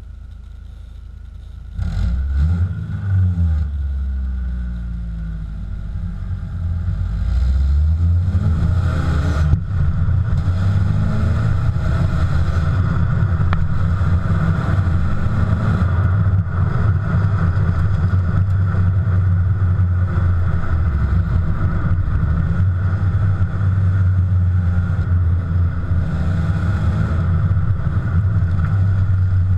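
BMW E46 with a Novus aftermarket exhaust: exhaust note rising and falling in pitch as the engine revs, getting louder about two seconds in, with another rise a few seconds later. It then settles into a steady low drone while driving along.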